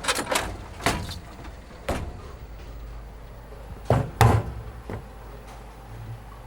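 A series of sharp knocks and clunks, the loudest two close together about four seconds in, over a steady low hum.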